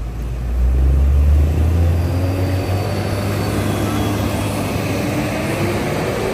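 Heavy trucks' engines rumbling as they drive in slowly, a deep steady rumble that swells about half a second in, over a noisy background.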